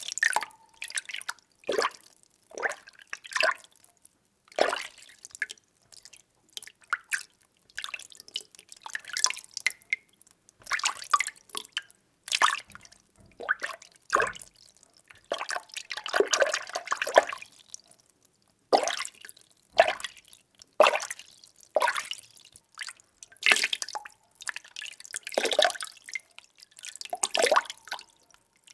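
Water being stirred in a container: irregular short swishes and small splashes about once a second, with a longer swirling stretch around the middle.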